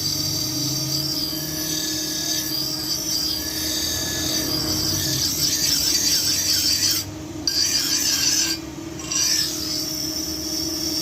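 Steel blade being sharpened, metal against an abrasive in a steady rasping hiss that breaks off twice briefly in the second half.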